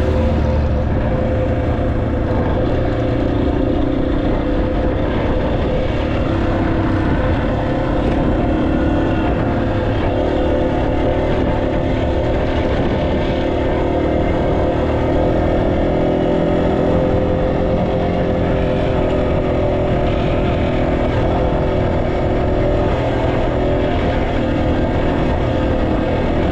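Motorcycle engine running steadily under way, its pitch holding nearly constant with only small shifts.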